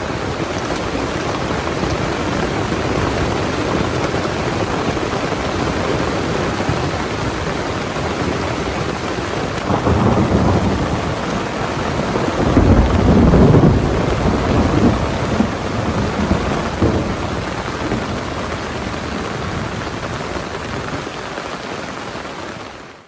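Heavy rain falling steadily, with thunder rumbling: a low rumble swells about ten seconds in, is loudest a few seconds later, and fades out in smaller rolls.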